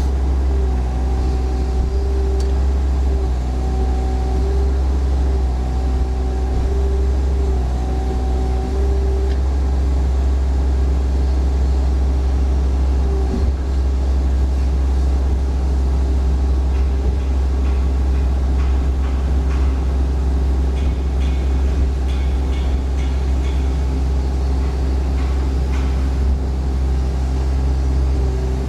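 Mini excavator's Yanmar 380 diesel engine running steadily, with a higher steady tone that comes and goes several times in the first few seconds.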